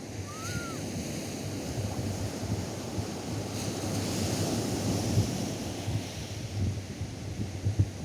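Atlantic surf washing onto a sandy beach, swelling to a peak about four seconds in, with wind buffeting the microphone. A brief faint high call, rising then falling, sounds near the start.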